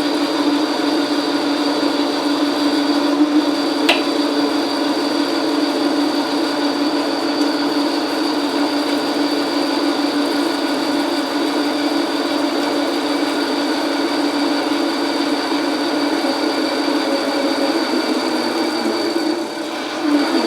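Logan metal lathe running under power feed, taking a heavy roughing cut: a steady machine whine with the tool cutting, with a sharp click about four seconds in. The sound drops off near the end as the cut finishes.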